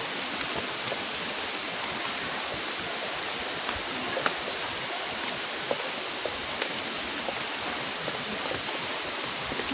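Steady rush of flowing water from a hill stream or cascade, with a few faint clicks.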